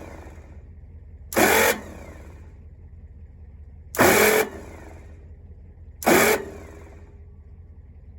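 Starter on a Massey Ferguson 1105's Perkins 354 diesel, hit three times in short half-second bursts. Each burst is a harsh zing with a whine that winds down in pitch, and the engine does not turn over: the starter pinion is spinning against bald spots on the flywheel.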